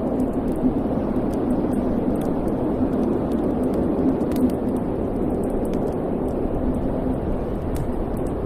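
Wood fire burning in a fireplace: a steady low rush of flames with small crackles and pops scattered through it.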